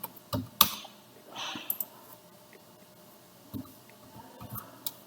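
Scattered clicks of a computer mouse and keyboard, a few separate taps with the sharpest about half a second in, and a short breathy hiss about a second and a half in.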